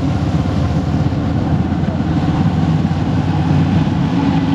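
Motorcycle engine running steadily while riding, along with road noise.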